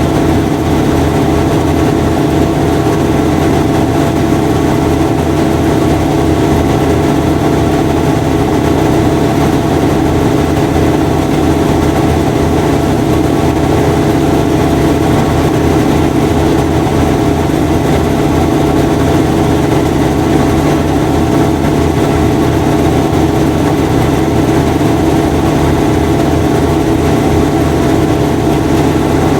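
Washing machine running: a loud, steady motor hum with several fixed tones and a fast, even low throb underneath, unchanging throughout.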